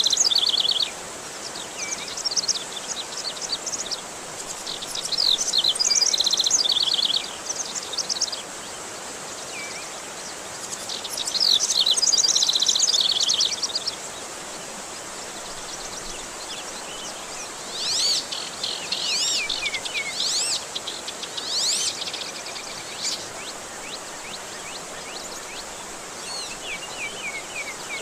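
Songbird singing in separate phrases of fast chirps and whistled trills, several times, over a steady rushing hiss.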